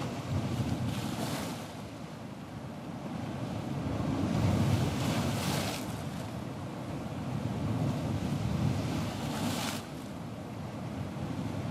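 Ocean surf: waves breaking and washing in, swelling and easing three times.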